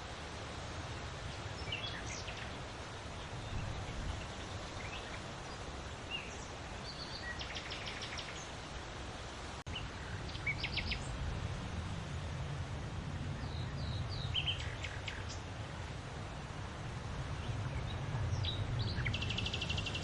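Steady wind with a low rumble that swells in gusts, and small birds giving short chirps and quick trills several times over it.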